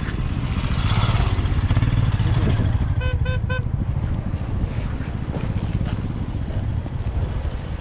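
Motorcycle engine running steadily under a rush of noise. About three seconds in, a horn gives three quick beeps.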